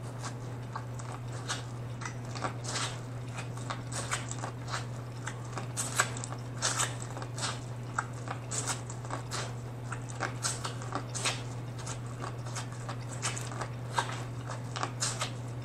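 Corn on the cob being bitten and chewed: a steady, irregular run of short crunchy clicks as the kernels are pulled off the cob.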